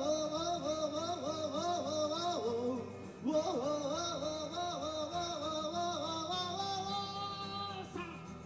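Live acoustic song passage: a wavering melodic lead line over acoustic guitar. It pauses briefly about three seconds in and stops about eight seconds in, leaving the guitar.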